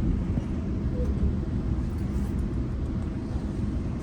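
Steady low rumble of a GO Transit commuter train running along the track, heard from inside a passenger coach.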